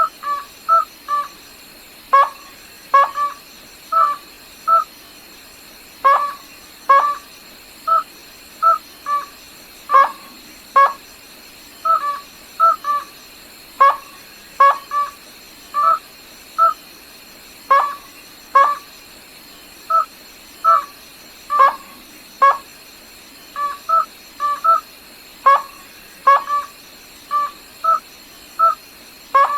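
A rail, the gà nước họng trắng (white-throated rail), giving short, sharp call notes about once a second. Some notes come in quick pairs or triplets, with quieter follow-on notes, over a faint steady high whine.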